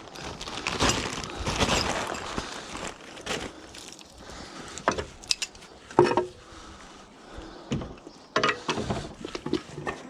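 Small pieces of scrap metal clanking and knocking as they are handled and thrown together, in a string of irregular impacts. The loudest comes about six seconds in and rings briefly.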